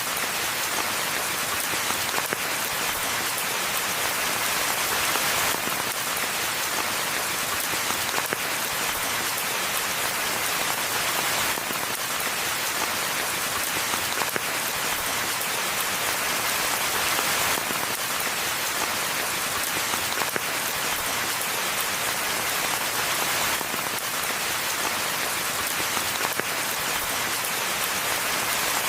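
Steady rain falling: an even, dense hiss of many drops, holding the same level throughout.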